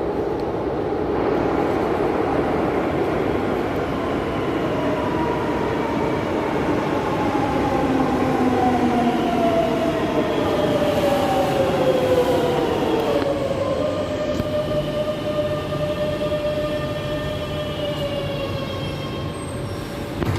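Madrid Metro train running, its electric traction motors whining in a falling pitch as it slows, then holding a steady whine over the rumble of wheels on rail.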